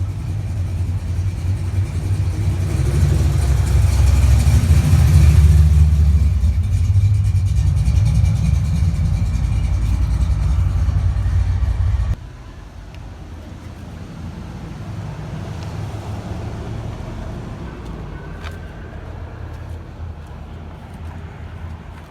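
A car engine running close by, growing louder around the middle of its run and stopping abruptly about twelve seconds in. After that only a quieter, steady outdoor background remains.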